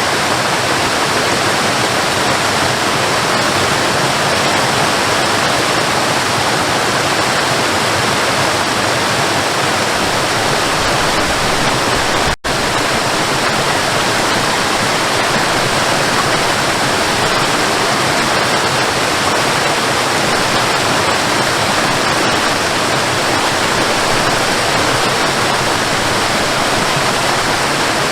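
Waterfall: a steady rush of falling water, which cuts out for an instant about twelve seconds in.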